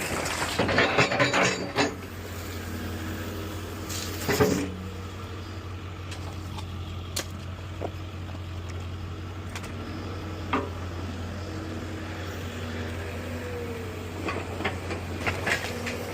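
A heavy demolition machine's engine running steadily, with clusters of metallic clanks and crashing debris at the start and again about four seconds in, then a few single sharp knocks.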